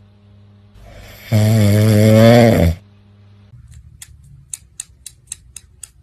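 A loud, drawn-out snoring sound lasting about a second and a half, then a quick run of light ticks, about four a second, near the end.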